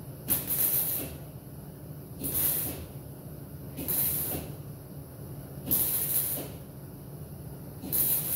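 MIG welder running .023 wire, laying short tack or stitch welds on a sheet-metal patch panel: five separate hissing bursts, each under a second, about every two seconds.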